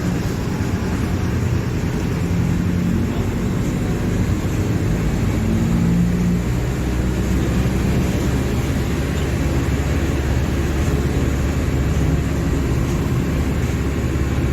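Mercedes-Benz OF-1721 BlueTec 5 bus's diesel engine running, a steady low hum that shifts in pitch a few times in the first half and then holds steady.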